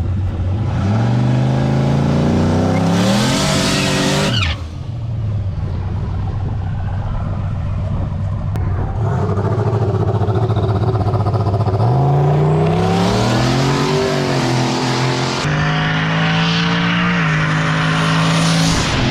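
Twin-turbo drag truck's engine idling, then revving hard twice. The first rev climbs steeply in pitch for about three seconds and cuts off abruptly. The second climbs, holds a steady higher pitch, then rises again near the end, with a hiss over the revs.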